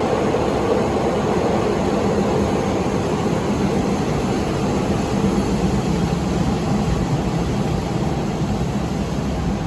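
Passenger train under way, heard from on board: a steady rumble and rushing noise that starts abruptly and holds at one level.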